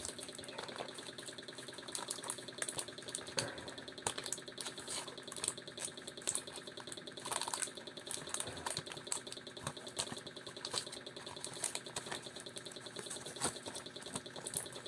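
A carbon brush for a hair dryer motor being rubbed back and forth on sandpaper by hand to grind it down to size: a steady run of quick, irregular scratching strokes.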